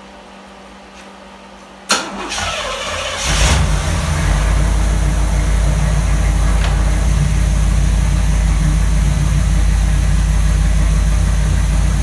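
1982 Pontiac Trans Am's V8 on a cold start: a click and a brief crank about two seconds in, then the engine catches and settles into a steady idle.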